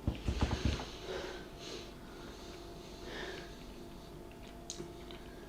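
A few brief thumps in the first second, then quiet breathing with a few soft sniffs.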